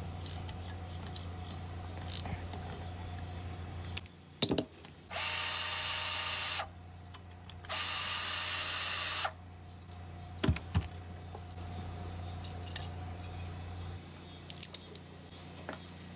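A power drill or driver runs twice, about 1.5 seconds each time, with a steady pitch. It is backing out the small 1/4-inch bolts on a lawnmower engine's fuel inlet tube, with a few clicks of the socket and parts around the runs.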